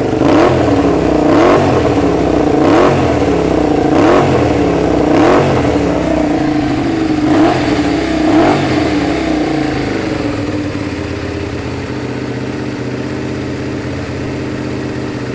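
Honda VTR250 V-twin through an aftermarket muffler, its throttle blipped about seven times in short revs that each drop straight back, then settling to a steady idle about ten seconds in.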